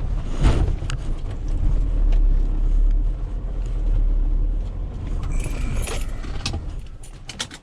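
Vehicle engine running with a steady low rumble, with light rattles and clicks. The rumble drops away just before the end.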